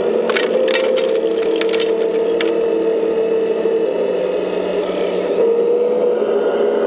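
Steady electric whine of a 1/14-scale RC construction machine's motor and hydraulic pump, shifting slightly in pitch, with a run of sharp cracking and snapping clicks in the first two and a half seconds.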